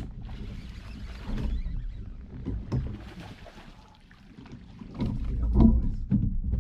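Water splashing and sloshing beside a fishing kayak, with scattered knocks and bumps, and a heavier low rumble on the microphone from about five seconds in.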